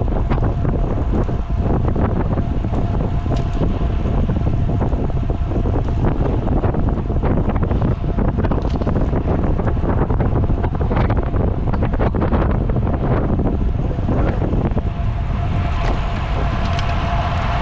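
Heavy wind buffeting on the microphone of a road cyclist riding at speed, a steady rushing rumble. Near the end a steady whine with overtones comes up over the wind.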